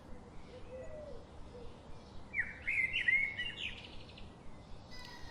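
Bird chirping: a quick run of short chirps about two to three seconds in, over a faint steady background hiss.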